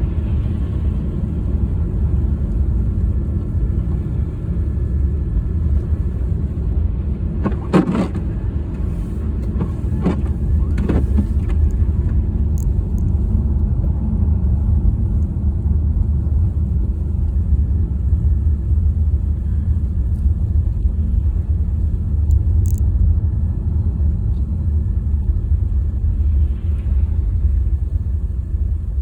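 A car's steady low road and engine rumble while driving, with a few short knocks about eight and eleven seconds in.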